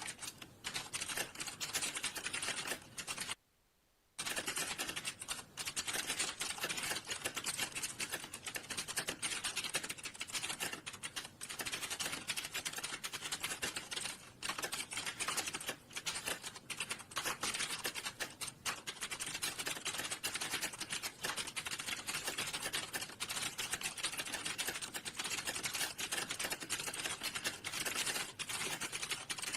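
Fast, continuous typing on a computer keyboard, keystrokes clattering with only a short pause about three and a half seconds in.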